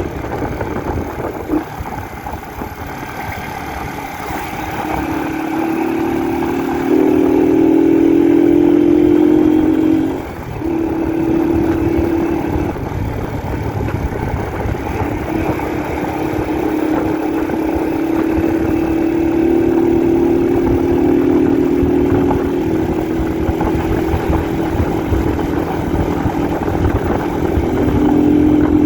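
Honda 125 CDI single-cylinder four-stroke motorcycle engine running under way, its note climbing and holding at steady speeds, with a brief drop about ten seconds in as the throttle closes and picks up again. A steady rush of noise runs underneath.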